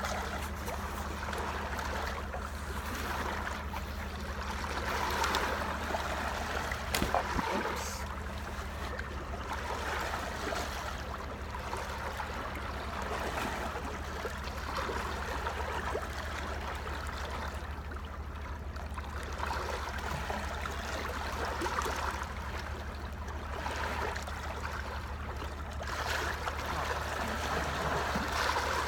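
Small lake waves lapping at the shore, swelling and easing every few seconds, over a steady low rumble.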